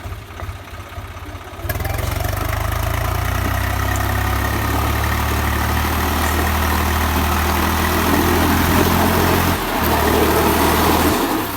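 Swaraj 834 XM tractor's three-cylinder diesel engine running hard under load, held at a steady pitch. It gets louder about two seconds in, swells again later, and dips for a moment near the end.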